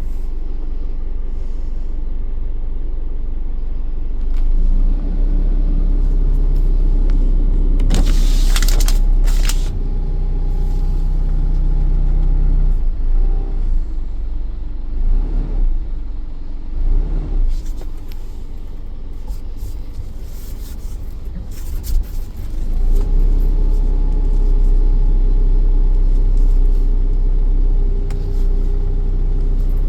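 Isuzu-built 5.2-litre four-cylinder turbo-diesel of a Chevrolet Low Cab Forward 5500 XD truck idling just after start-up, with a steady low rumble. A few brief sharp noises come about eight and nine seconds in, and the engine note is uneven through the middle before settling steady again.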